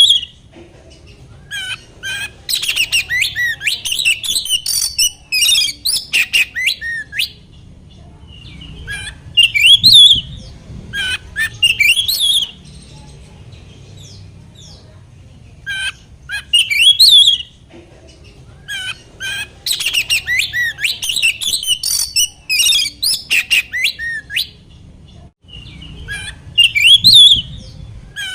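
Oriental magpie-robin (kacer) singing: fast phrases of sharp whistles, trills and harsher notes, in loud bursts of a few seconds separated by short pauses, over a faint steady low hum.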